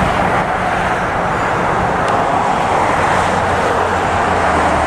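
Boeing 787 Dreamliner jet airliner coming in to land, its engines making a steady loud rushing noise over a low hum.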